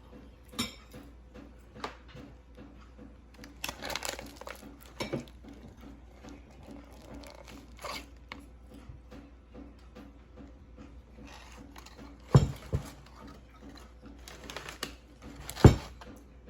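Knocks, clinks and rustling of a metal motorcycle clutch cover being handled and set down. The two loudest are sharp knocks about twelve and fifteen and a half seconds in.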